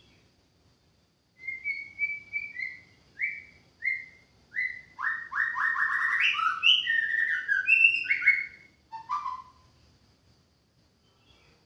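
White-rumped shama singing one song phrase, starting about a second and a half in: a series of short, clear, downward-sliding whistles, then a fast run of loud notes in the middle, ending with a lower note about two seconds before the end.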